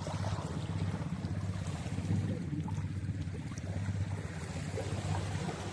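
A boat's engine running steadily with a low hum, under the rush of water and wind.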